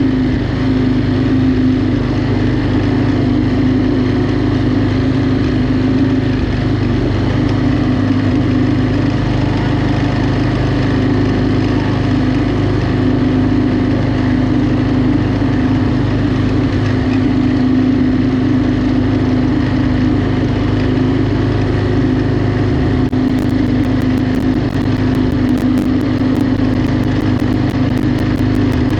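Riding lawnmower engine running steadily at an even speed, its pitch holding almost constant.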